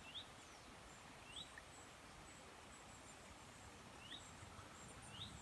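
Faint birdsong: a short rising chirp repeated four times at uneven gaps, with fainter high-pitched twittering above it.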